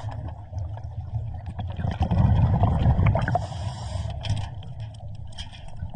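Underwater sound of a scuba diver breathing through a regulator: a low, muffled rumble of exhaled bubbles that swells about two seconds in, with faint clicks and hiss.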